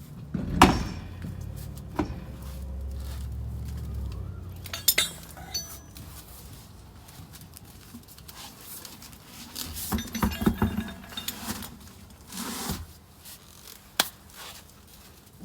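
Metal tools and parts clinking and knocking as they are handled, with separate sharp clanks and a run of rattling clinks around ten seconds in. A low hum runs under the first four seconds.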